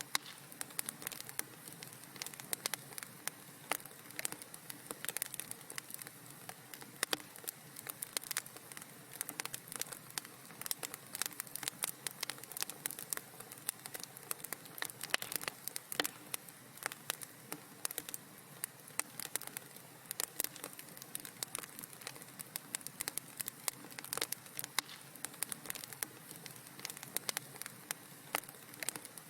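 Wood fire in a fireplace crackling steadily, with many small sharp pops and snaps over a soft hiss.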